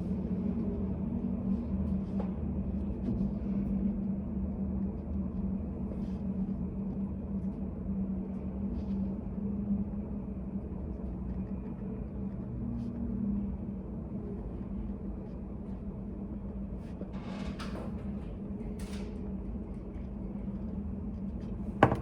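Study-café room ambience: a steady low hum with faint scattered ticks, two brief soft noises about three-quarters of the way through, and a sharp knock just before the end.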